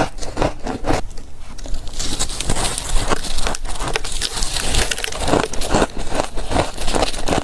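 Close-up crunching of freezer frost being bitten and chewed: a rapid, uneven run of crisp crunches, with a brief lull about a second in before the chewing picks up again.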